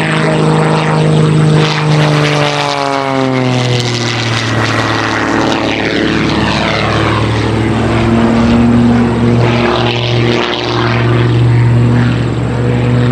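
Propeller engines of Christen Eagle aerobatic biplanes running at high power, a loud continuous drone. The engine note falls in pitch about two to four seconds in, then holds steady, with a second engine tone joining partway through.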